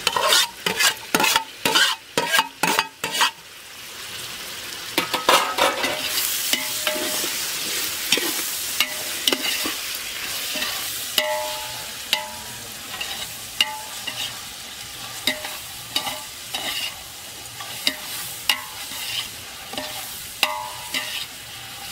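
A metal spoon clacks sharply against a metal plate and the pot rim several times in the first few seconds as chopped tomatoes are scraped into the pot. Then chopped onions and tomatoes sizzle steadily in hot oil in the metal pot, with the spoon scraping and clinking against the pot as it stirs.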